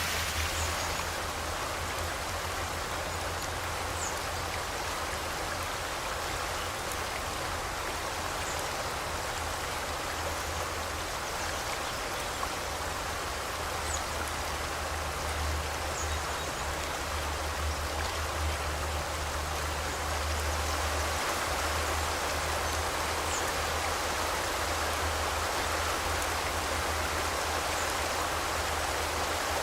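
Forest river flowing, a steady dense rush of water, with a few faint, short high bird chirps now and then.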